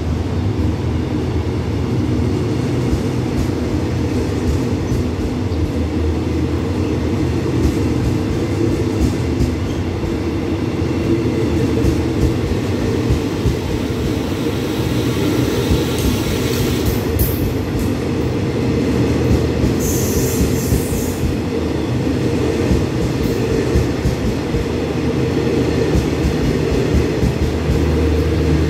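Passenger coaches of an express train rolling slowly past a station platform as the train pulls out, making a steady low rumble of wheels on rail. Two brief high-pitched squeals stand out, one about 16 seconds in and one about 20 seconds in.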